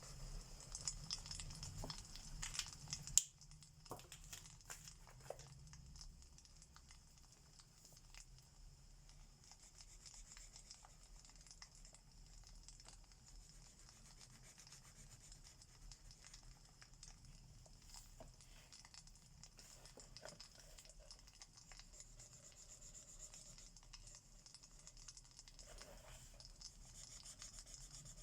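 Faint crackling of a fireplace: a busier patch of crackles with one sharp crack about three seconds in, then light scattered crackles over a steady faint hiss.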